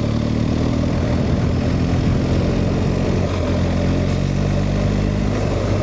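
BMW R 1250 GS Rallye's boxer-twin engine running steadily at low revs, its pitch shifting slightly about three seconds in.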